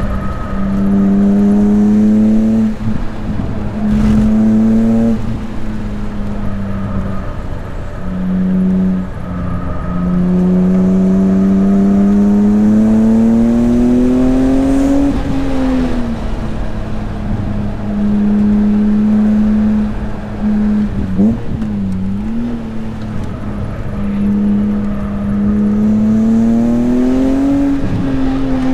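BMW S54 3.2-litre straight-six in an E36 M3 driven hard on track: the engine note climbs in pitch through several long pulls and falls back sharply in between.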